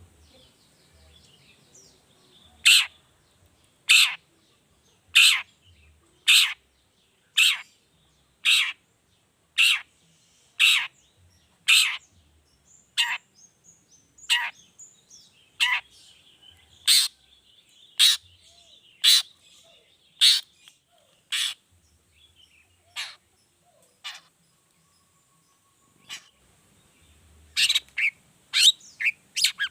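Long-tailed shrike (cendet) calling a single sharp 'toet' note over and over, about one a second, with faint twittering between the notes. Near the end the notes come faster and closer together.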